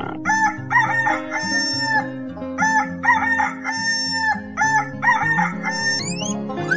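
Rooster crowing three times, each crow a few broken notes and then a long held note that falls off, over background music. Quick rising whistle glides come in near the end.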